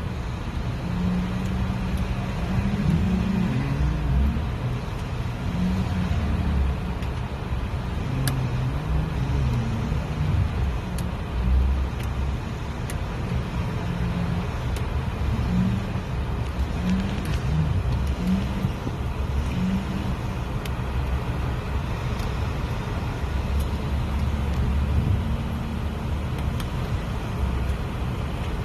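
Vehicle engine running at low speed, its pitch rising and falling, with a few light clicks and knocks.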